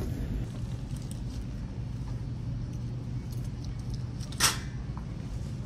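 Steady low background hum, with one short, sharp rustle or clatter about four and a half seconds in.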